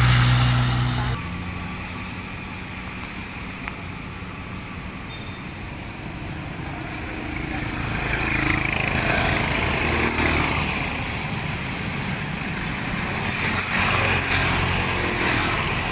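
Road traffic in the rain: vehicle engines running and tyres hissing on the wet road. One engine hums close and loud for the first second, and the traffic grows louder from about eight seconds in.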